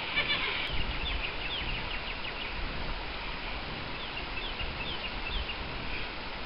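Birds chirping in quick short notes over a steady background hiss, with a low rumble underneath.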